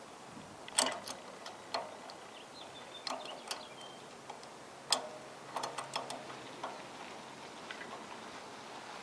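Scattered sharp clicks and light metallic clinks, a dozen or so at uneven intervals, some ringing briefly: hand tools and small parts handled against metal.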